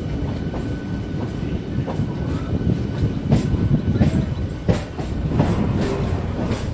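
Train running on the rails: a steady low rumble with irregular sharp clacks of wheels passing over rail joints.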